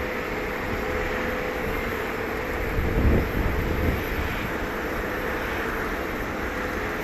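Jet engine noise from an Asiana Boeing 777-200ER on its landing, a steady rush with a steady whine. About three seconds in, a brief low rumble rises over it for about a second.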